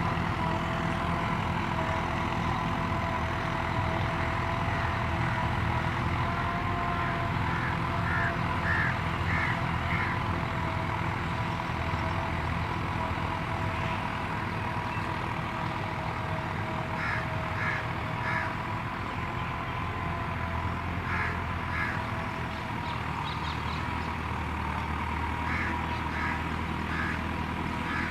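Massey Ferguson 385 tractor's diesel engine running steadily, with a steady high whine over it. Short series of bird calls come several times.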